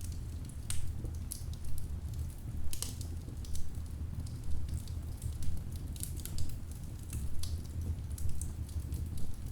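Wood fire crackling in a fireplace: irregular sharp snaps and pops, several a second, over a low steady rumble of the burning logs.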